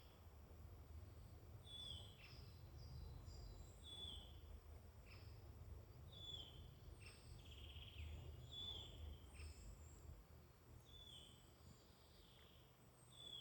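Faint woodland birdsong: songbirds giving short falling notes, repeated every second or two, over a low steady rumble.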